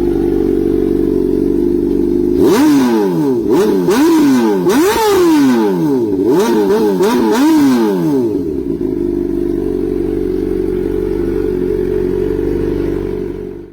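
Honda CBR600RR inline-four sport bike engine through an aftermarket exhaust, idling, then blipped through a quick series of sharp revs that rise and fall, then settling back to idle.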